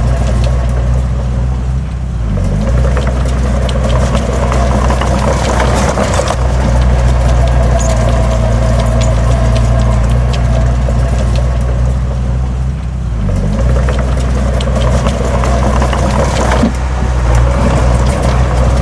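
Heavy earthmoving machine's diesel engine running hard, with clanking and rattling over it. The engine note dips briefly twice, about two seconds in and again near the middle.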